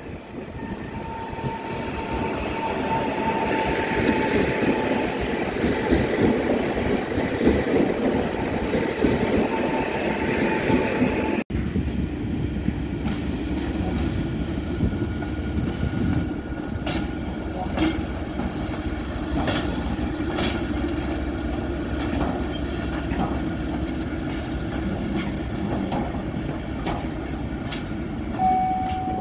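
Electric multiple unit train running into the station, its noise growing over the first few seconds, with a steady whine. After a cut about 11 s in, a steady train rumble with wheels clicking over rail joints roughly once a second.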